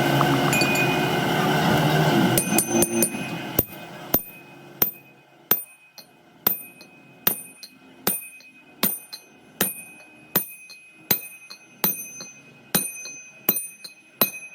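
Hammer striking metal repeatedly, a little more than one blow a second at a slightly uneven pace, each blow ringing. It follows a couple of seconds of loud, dense workshop machine noise that stops about two and a half seconds in.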